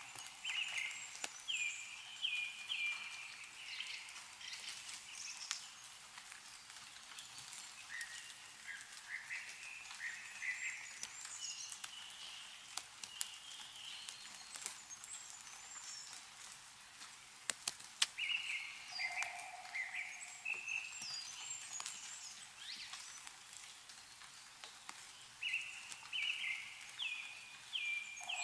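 Songbirds singing phrases of several short notes, repeated every few seconds, over scattered drips and taps of meltwater falling from snow-laden trees, one drip sharper and louder about two-thirds of the way in.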